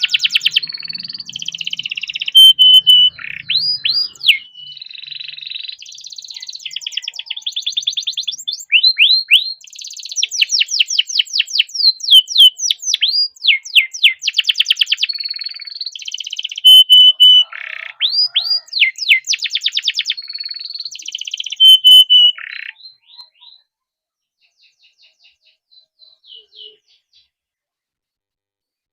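Domestic canary singing a long, loud song of rapid rolling trills and fast runs of repeated downward-sweeping notes. The song breaks off about 22 seconds in, leaving a few faint notes and then silence.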